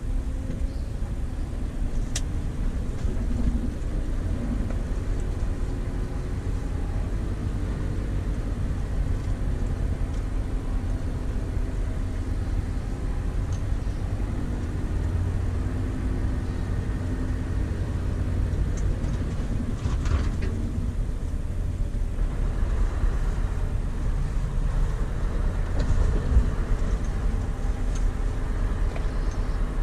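Scania V8 diesel engine of an 8x4 tanker truck running steadily while driving. There is a sharp click about two seconds in and a short hiss about twenty seconds in.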